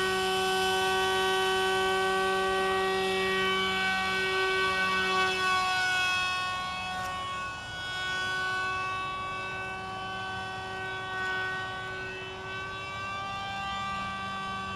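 Motor and propeller of a radio-controlled model airplane in flight, a steady whine held at nearly one pitch, a little fainter from about halfway through.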